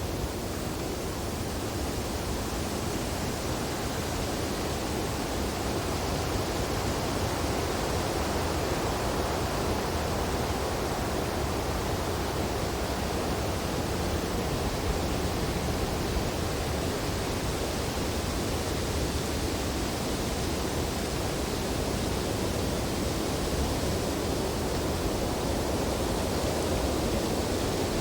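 Wind blowing steadily through tree branches in a snowstorm: a dense, even rush with gentle swells.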